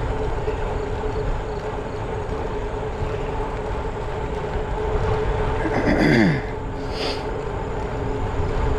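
Wind rushing over the microphone and road noise from a bicycle riding along at speed, with a steady hum underneath. About six seconds in, a brief tone slides downward.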